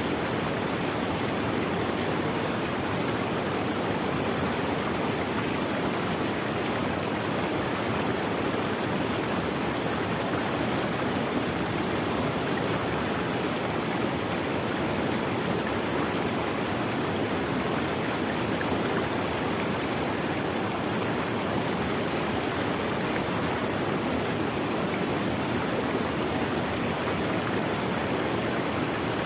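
Running water of a stream, a steady rushing flow with no breaks.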